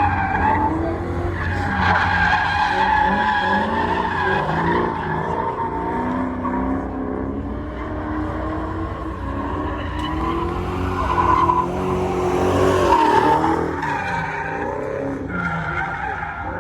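Drift cars sliding: engines revving up and down with tyres squealing, loudest about twelve seconds in.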